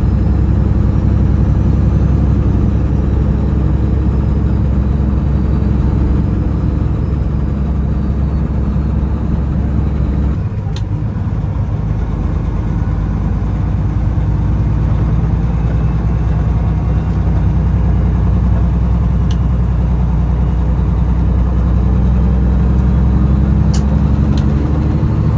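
Loaded semi-truck's diesel engine running steadily under way; about ten seconds in the engine note dips and changes, then its pitch climbs slowly as it pulls.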